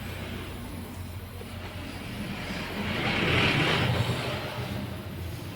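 A motor vehicle passing by, its noise swelling to a peak about three and a half seconds in and then fading, over a steady low hum.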